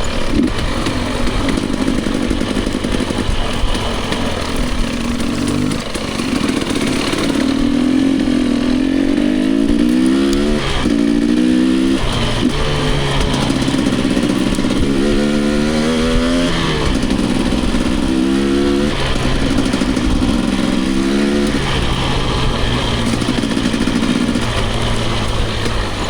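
Dirt bike engine being ridden hard, its pitch climbing again and again as the throttle is opened and dropping back as it is rolled off or shifted.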